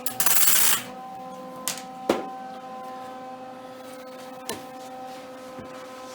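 A short burst of harsh, hissing noise in the first second, then a steady electrical hum with a few light clicks.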